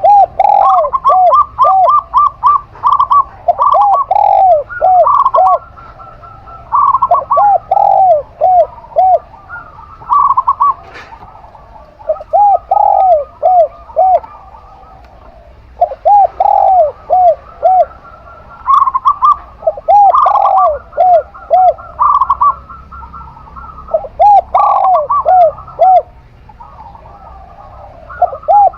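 Zebra dove (perkutut) and spotted dove (tekukur) cooing together in repeated phrases of short arched notes, one lower and one higher in pitch, with a brief trill in some phrases. The phrases come in groups every few seconds with short pauses between them.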